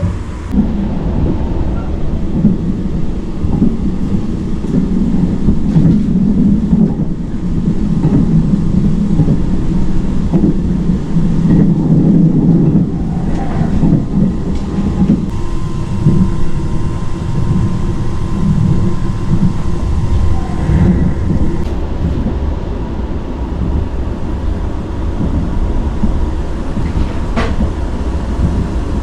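JR Hokkaido train running, heard from inside the carriage: a loud, steady low rumble of wheels and running gear. A faint steady high tone joins about halfway through, and a sharp click comes near the end.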